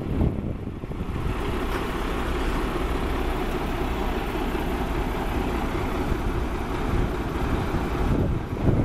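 Fire engine running steadily, a low rumble with an even hiss on top that comes in about a second in and eases off near the end.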